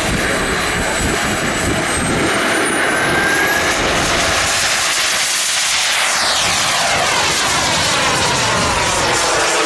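Large radio-controlled model airplane flying past, its engine noise loud and steady, sweeping in tone as it passes close about halfway through.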